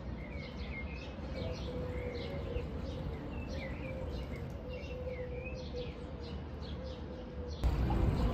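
Small birds chirping in many short calls over a faint steady hum. Near the end the sound switches abruptly to a louder, noisier ambience.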